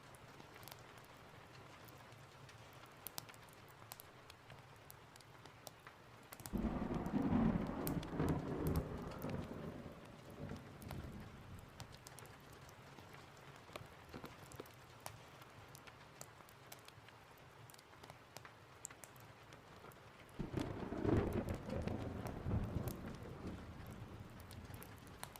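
Steady rain with scattered small ticks and crackles, broken twice by rolling thunder: a few seconds of low rumble starting about six seconds in, and another about twenty seconds in.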